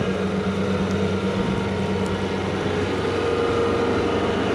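Skid loader's engine running steadily with a low hum, a higher tone in it growing stronger past the middle.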